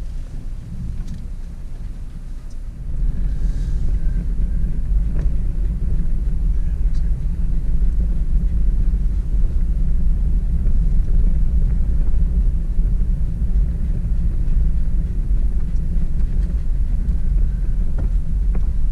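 Car driving on a bumpy dirt forest road: a steady low rumble that gets louder about three seconds in, with a few light knocks.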